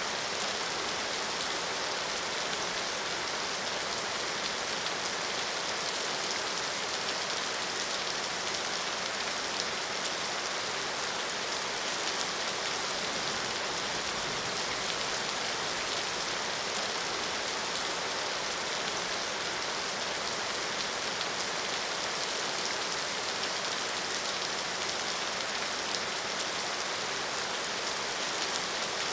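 Steady rainfall, an even hiss of many drops striking a surface, with scattered small drop ticks and no change in intensity.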